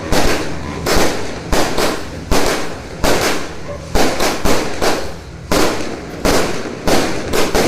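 Firecrackers and fireworks exploding in a dense, uneven barrage of sharp bangs, about three a second.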